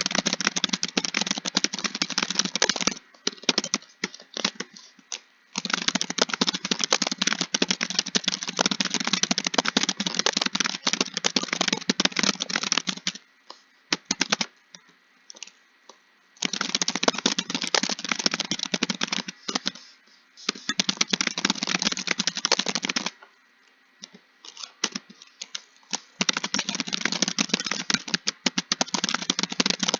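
Fast typing on a computer keyboard, in long runs of rapid key clicks broken by short pauses with only a few scattered keystrokes.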